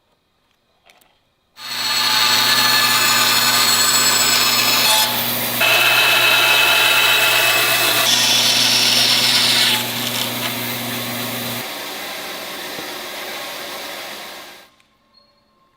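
Electric woodworking power tool working a piece of wood: it starts suddenly and runs loud, a steady motor hum under a dense hiss that changes as the work shifts. Near the end the motor is switched off and the machine winds down over about three seconds.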